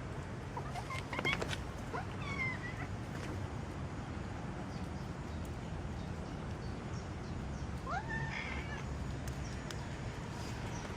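Cat meowing twice, a short call about two seconds in and a rising one near eight seconds, over a steady low background rumble.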